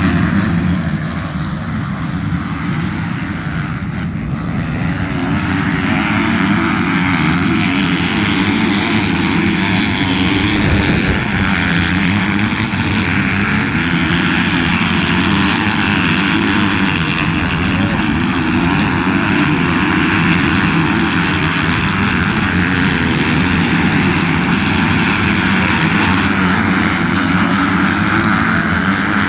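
Motocross bike engines running at a steady level.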